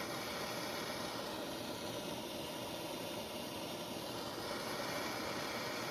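Propane torch burning steadily, a constant even rush of flame noise, preheating a cast-iron engine block before welding a crack.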